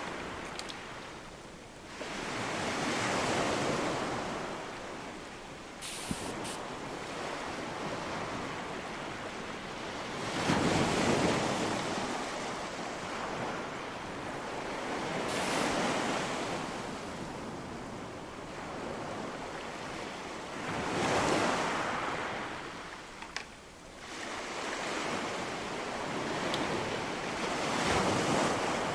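Rain against a window pane: a steady hiss that swells and eases every five seconds or so, with a few faint clicks.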